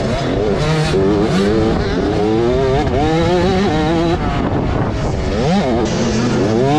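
Several motocross dirt bikes racing on the track, their engines revving up in rising sweeps and dropping back as they shift and back off, over and over.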